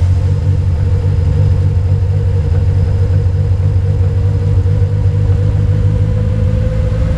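Freshly built rally car engine on individual throttle bodies (ITBs) running smoothly and steadily at idle, moments after firing up.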